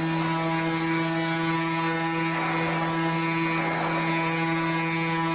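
A vehicle horn held down, sounding one steady low note without a break.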